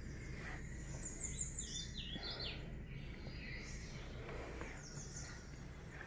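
Faint bird chirping: several short runs of quick, high, stepped notes over a low steady hum.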